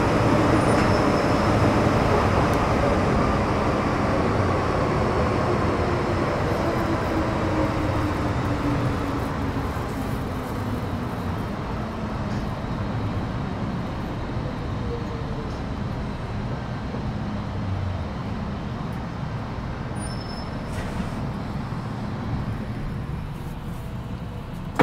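MTR Metro Cammell M-Train EMU with GEC GTO chopper control slowing down, heard from inside the car. Several motor and chopper tones slide slowly downward in pitch while the running noise gradually fades, as the train brakes to a stop.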